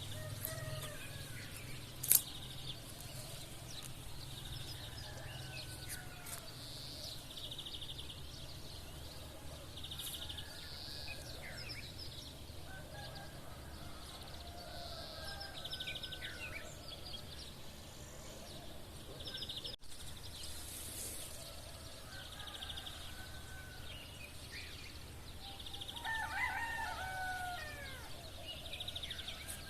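Roosters crowing repeatedly, the loudest and closest crow coming near the end, over steady chirping of sparrows with repeated buzzy trills. A single sharp click about two seconds in.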